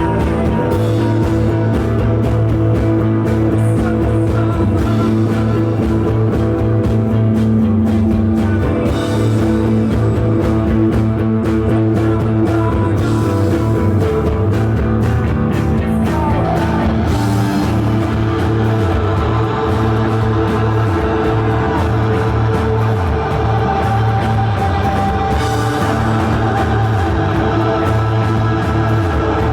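Live psychedelic rock band playing a dense, droning passage with guitars, steady bass and drums, and a voice held in long tones.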